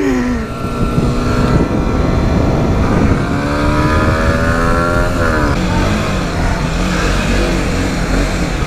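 Motorcycle engine under way with wind rumble on the helmet-mounted microphone. Its pitch falls at first, climbs steadily for a couple of seconds, then drops suddenly about five seconds in and runs lower.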